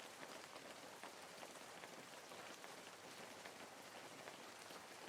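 Faint light rain, a steady patter of many small drops.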